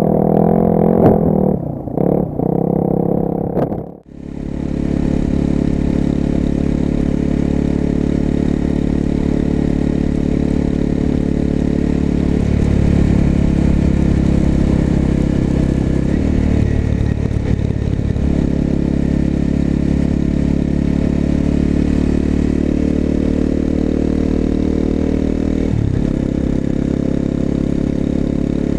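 Exhaust note of a 250 cc single-cylinder four-stroke motorcycle fitted with an aftermarket exhaust, heard while riding: a steady engine tone that drops out briefly about four seconds in, then runs on with its pitch stepping a few times.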